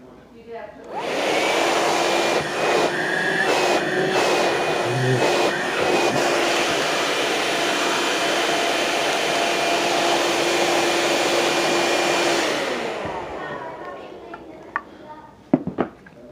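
Cordless handheld vacuum cleaner switched on about a second in, running steadily with a faint whine over the rush of air, then switched off near the end and winding down. A couple of sharp clicks follow.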